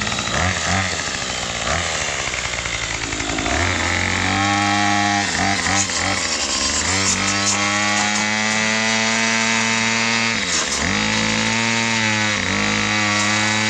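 Gas string trimmer fitted with a chainsaw-tooth brush cutter blade, revved up to full throttle about four seconds in and held there. Its engine pitch sags briefly three times as the blade bites into a small tree.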